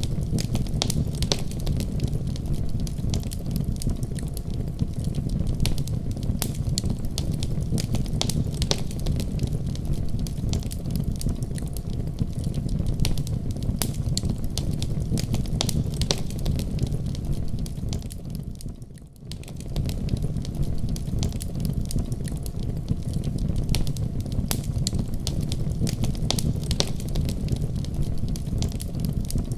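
Fire burning in a fireplace: a steady low rumble under continual sharp crackles and pops, with a brief dip in level about two-thirds of the way through.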